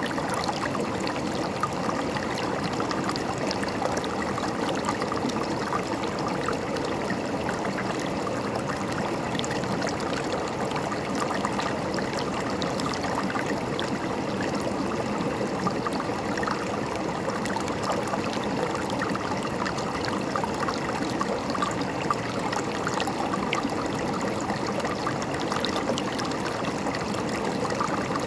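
River water flowing and gurgling over rocks, a steady, even rush with fine splashes and burbles throughout.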